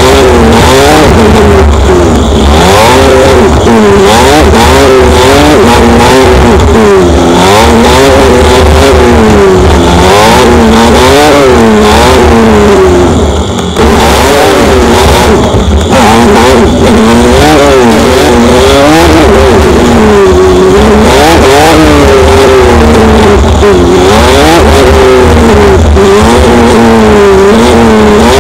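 Motorcycle engine pulling and backing off over and over, its pitch rising and falling every second or two, over a constant low wind rumble on the microphone. The sound drops away briefly about halfway through.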